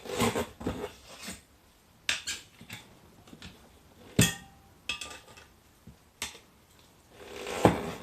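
Metal tools and wheel parts clinking and knocking during a motorcycle tyre change, with a sharp ringing metal strike about four seconds in and another near the end.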